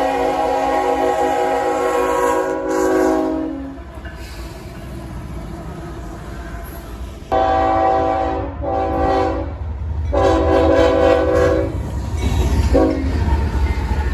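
Freight locomotive's multi-note air horn sounding a series of blasts: one held blast that ends about four seconds in, then after a pause three blasts in quick succession and a brief toot near the end. Under the horn is the rumble of the passing train, which grows louder in the second half.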